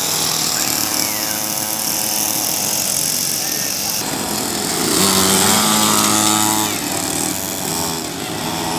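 Motocross bike engines running with a buzzing note that holds and then steps in pitch as the throttle changes, about five seconds in.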